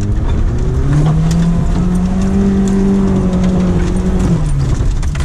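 Off-road vehicle's engine heard from inside the cabin, driving on a rough dirt track. The engine note climbs, dips about half a second in, climbs again and holds steady, then falls away about four seconds in. Short knocks and rattles come through over it.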